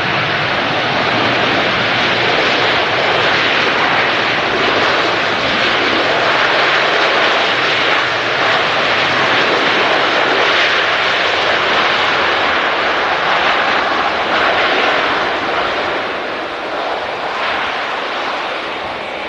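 Large jet airliner passing low on its landing approach: a loud, steady engine roar that eases slightly near the end.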